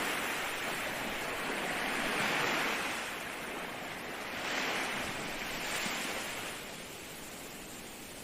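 Ocean waves breaking and washing ashore, the surf swelling and receding in slow surges every two to three seconds, easing off toward the end.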